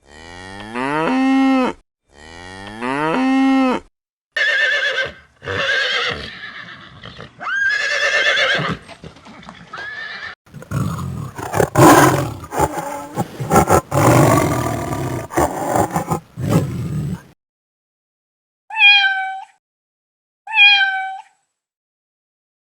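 Recorded animal calls played one after another: two long calls rising in pitch, several shorter calls, a harsh noisy stretch of several seconds, then two short cat meows near the end.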